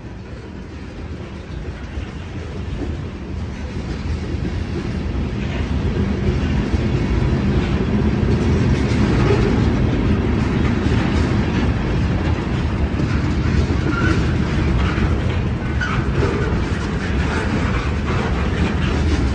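CSX mixed freight train's cars rolling past close by, a steady rumble of wheels on rail that grows louder over the first six or seven seconds and then holds, with wheels clacking over the rail joints.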